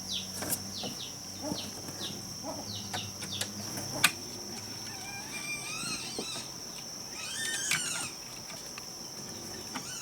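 A steady, high insect drone, with short falling chirps repeating in the first few seconds and warbling animal calls in the second half. Two sharp knocks, the louder about four seconds in.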